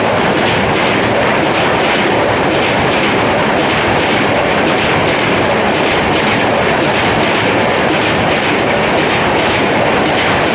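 LHB coaches of an express train passing at speed, a loud steady rush of wheels on rail with a rhythmic clickety-clack of the wheels over rail joints.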